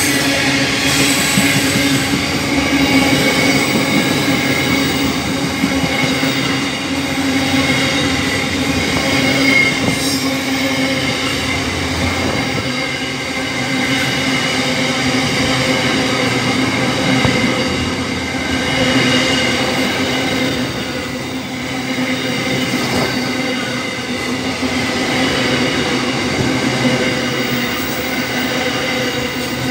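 Long freight train's wagons rolling past at close range: a continuous rumble of steel wheels on rail with steady high-pitched tones held over it.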